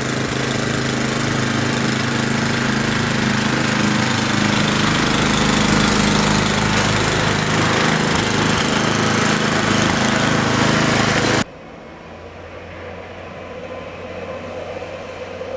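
Gas snow blower engine running steadily. It cuts off abruptly about eleven seconds in, leaving a quieter steady low hum.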